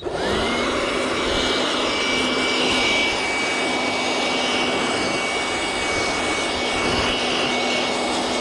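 Blower starting up and running steadily: its motor whine rises over the first half second, then holds, over a strong rush of air, as it blows bees off the honey frames.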